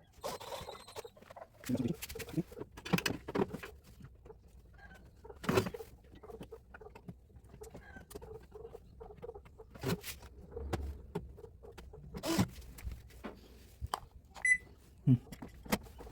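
Handling noise: irregular clicks, knocks and scraping of parts and tools being handled, with a short high beep near the end.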